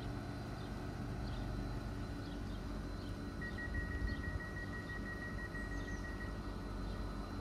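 Low steady rumble of a train on the railway line, with a single high steady tone for about three seconds midway through and faint bird chirps repeating over it.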